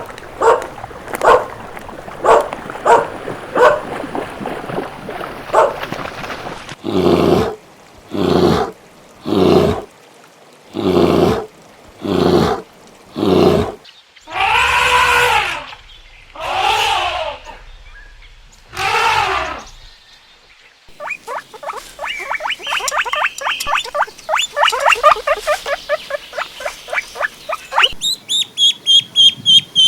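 Calls of several different farm animals, one after another. First come short repeated calls, then a run of calls about one a second, then three long calls, and near the end a fast stuttering call.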